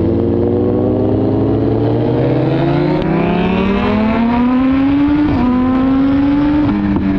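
Suzuki GSX-R1000R's inline-four with an Arrow exhaust accelerating hard, engine pitch rising steadily. It upshifts about five seconds in and again near the end, the pitch dropping and climbing again each time.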